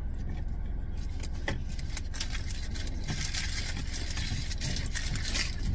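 Steady low rumble of a car, with a hiss and a few light clicks over it.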